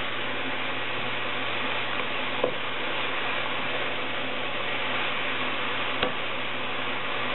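Chopped fresh fenugreek leaves sizzling steadily in hot oil in a nonstick pan as they are stirred with a wooden spatula, which knocks lightly against the pan a few times, most clearly about two and a half seconds in and near six seconds.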